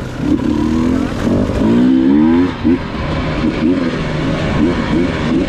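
Enduro dirt bike engine revving under throttle: a long climbing rev about two seconds in, then a string of short, quick revs.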